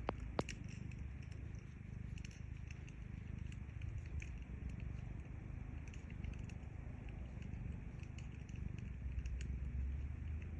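Cat purring, a low steady rumble that swells near the end, with scattered crackles and pops from a wood fire, two sharp pops right at the start.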